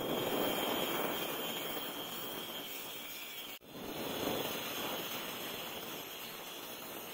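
Steady rushing machine noise with a faint high whine. It cuts out abruptly about three and a half seconds in and resumes at once.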